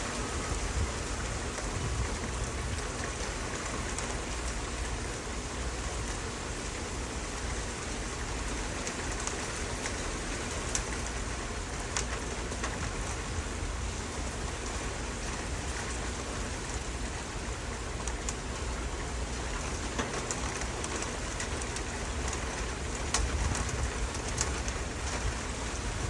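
Steady rain falling, with individual drops ticking sharply now and then on a hard surface.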